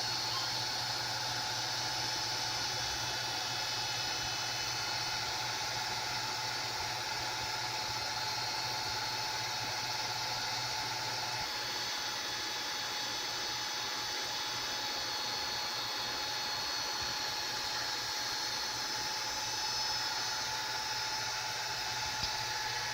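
A small fan or blower running steadily: an even hiss with a low hum and a few held whining tones, changing slightly about halfway through.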